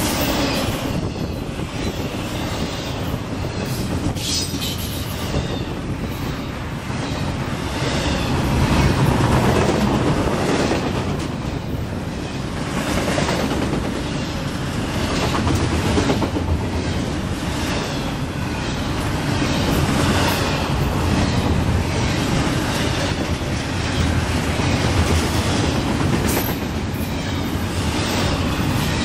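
Double-stack intermodal freight train rolling past close by: a steady rumble of steel wheels on rail with clickety-clack over the rail joints, swelling and easing as the cars go by. A brief high squeak cuts through twice.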